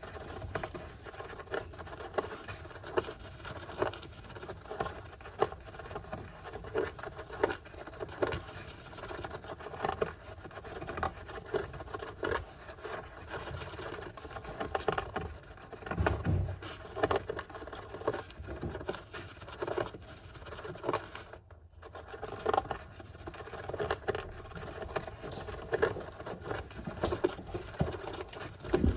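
Syrian (golden) hamster digging and scrabbling in a sand bath: a continuous, irregular patter of claws scratching and sand scraping.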